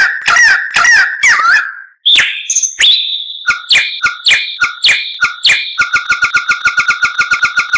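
White-rumped shama singing: a series of repeated slurred whistles, a brief pause, then a held high whistle laced with sharp clicking notes. The notes turn into a fast, even rattle about six seconds in.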